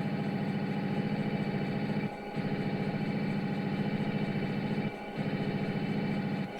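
Diesel engine running sound from the sound system of an HO-scale GP40-2 model locomotive, played through its small speaker. It is a steady chugging hum that drops out briefly twice and again near the end.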